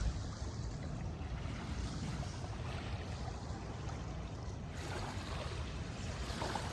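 Wind rumbling on the microphone over a steady wash of river water at the shore.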